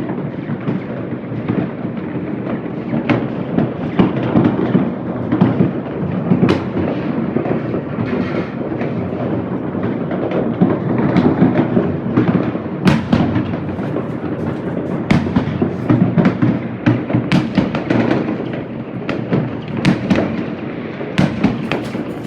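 Many fireworks going off at once: a continuous rumble of bangs with frequent sharp cracks, the cracks coming thicker in the second half.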